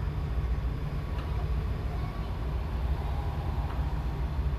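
Steady low engine rumble from a vessel's diesel engine, even throughout with no change in speed.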